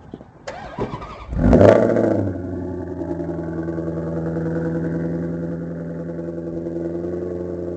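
A Maserati convertible's engine starts about a second and a half in, flaring briefly, then settles into a steady idle.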